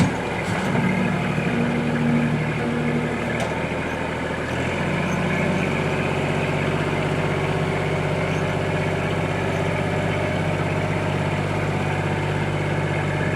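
Kubota tractor engine running steadily as its front bucket scrapes across hard lamproite rock, only shaving it off rather than breaking it. The engine note shifts and gets fuller about five seconds in.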